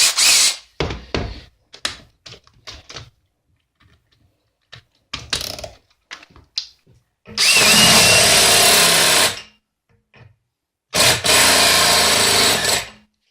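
Some handling clatter and knocks, then a power drill with a step drill bit runs in two bursts of about two seconds each, boring out a hole in a lawnmower wheel.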